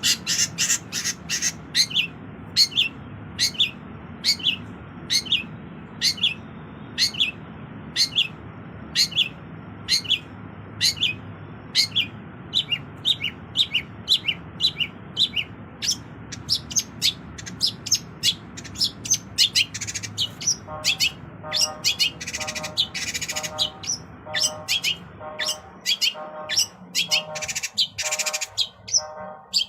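Long-tailed shrike (cendet) singing its mimicked repertoire: a fast run of sharp, down-slurred chips, a few a second. About two-thirds of the way through, a lower note repeated in a steady rhythm joins in, with harsh rasping phrases in between.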